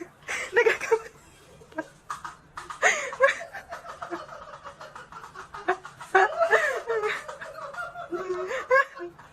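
People laughing in several bursts, snickers and giggles, with the longest stretch of laughter in the second half.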